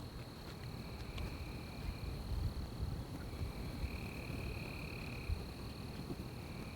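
Night forest chorus of calling insects: one high-pitched call held steadily throughout, and a lower trill that comes in stretches of one to two seconds, over a low rumble.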